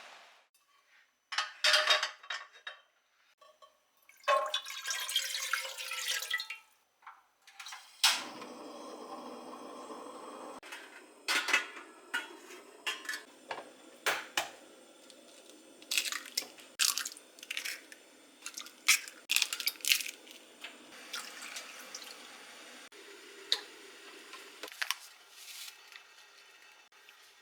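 Kitchen work sounds: short spells of running water, then dishes and utensils clicking and knocking many times.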